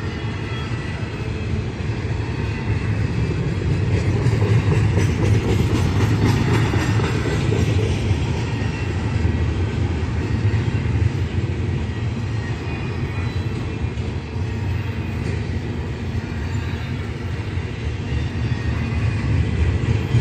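A train rolling past: a steady, loud rumble of wheels on rail with faint clickety-clack, swelling a little about four seconds in and again near the end.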